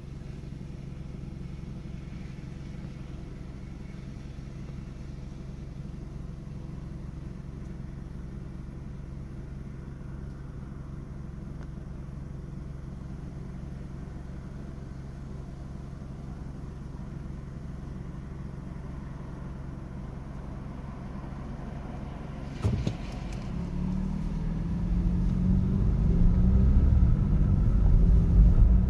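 City street traffic: a steady low rumble with a hum of idling engines, then a sharp knock about three-quarters of the way through, after which a vehicle's engine grows steadily louder with a wavering pitch.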